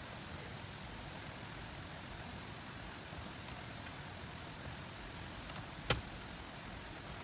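Steady hiss of heavy rain falling, with a single sharp knock about six seconds in.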